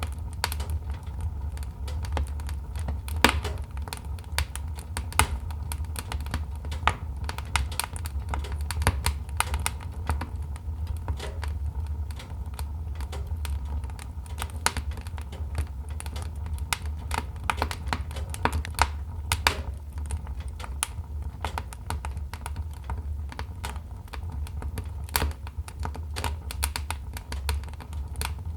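Wood fire crackling, with irregular snaps and pops, some sharper than others, over a steady low rumble.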